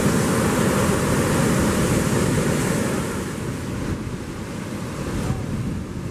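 Surf washing in along the beach, with wind buffeting the microphone; the rush of water is loudest over the first three seconds and then eases.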